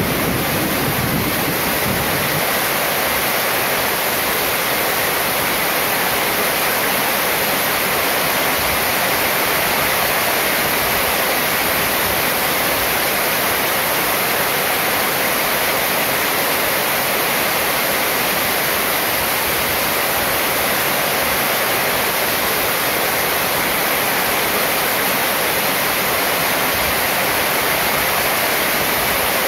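Heavy rain falling steadily on a sheet-metal roof and pouring off its edge, an even hiss.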